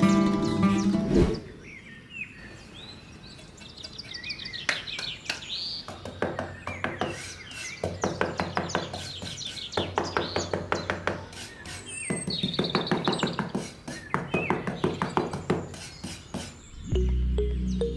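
Background music that stops about a second in. Birds then chirp and trill in quick runs of repeated notes, in bursts, and the music comes back near the end.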